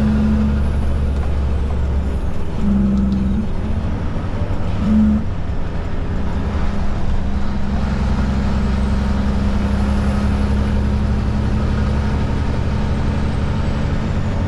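Kenworth K200 cabover prime mover's Cummins diesel engine running steadily under way at low road speed, with a few brief changes in note in the first five seconds.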